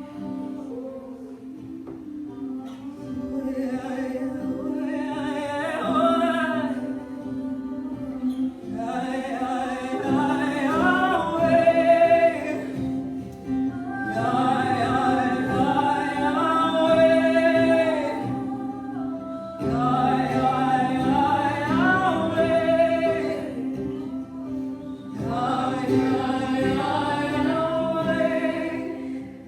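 Worship music: a singing voice holds about five drawn-out, wordless phrases over a steady sustained instrumental chord, as in spontaneous worship.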